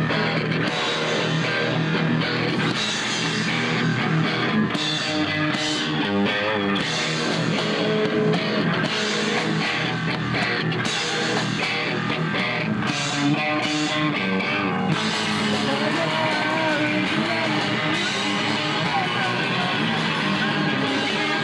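Live rock band playing a song: electric guitar over a drum kit, loud and unbroken.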